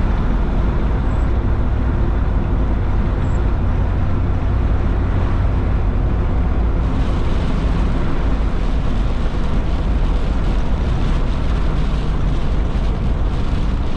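Steady rumble of a vehicle on the move, heard from inside, with road and wind noise; a brighter hiss comes in suddenly about halfway through.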